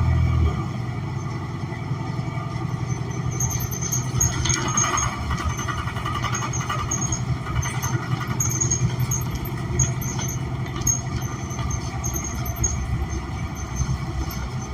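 Cabin rumble of a New Flyer XN40 city bus, its Cummins Westport ISL G natural-gas engine and drivetrain running. From about three and a half seconds in, short high-pitched squeals come and go repeatedly.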